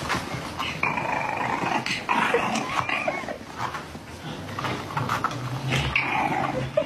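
A dog growling.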